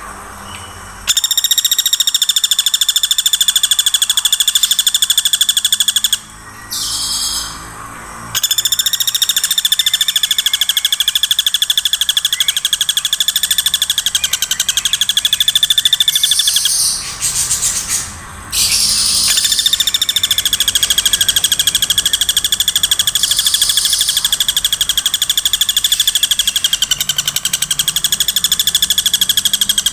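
Woodpecker giving its rapid, machine-gun-like rattling call, high-pitched and unbroken, in three long runs separated by two short breaks.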